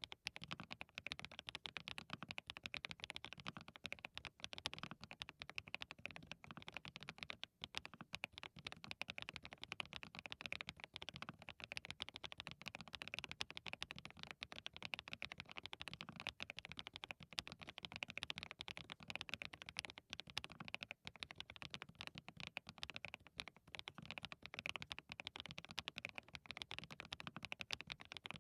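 Continuous fast typing on a hand-lubed DT35 87-key custom mechanical keyboard fitted with SW x HMX Catmint linear switches: a dense run of keystrokes, several a second.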